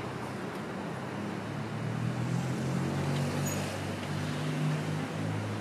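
A motor vehicle's engine running close by over steady street noise, a low hum that grows louder about two seconds in.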